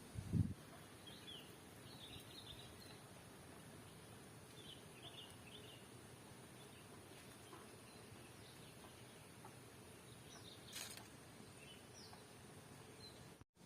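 Faint outdoor ambience with scattered short, high bird chirps, bunched in the first few seconds and again around five seconds in. A low thump at the very start and a single sharp click about eleven seconds in.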